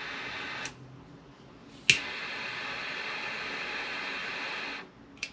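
Steady hiss of a handheld heat tool being played on a seized bolt to free it. It cuts out about two-thirds of a second in, comes back on with a sharp click about two seconds in, and stops near the end.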